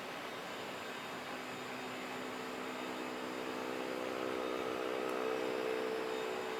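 Jet airliner engines heard at an airport: a steady rushing with a humming tone that builds through the middle and eases near the end.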